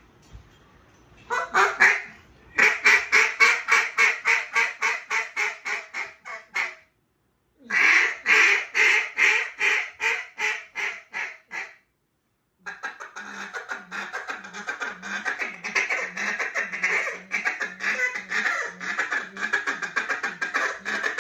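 Hand-blown duck call sounding hen-mallard quacks: a few single quacks, then two runs of quacks that fade away as they go, then a long, fast, steady feeding chuckle.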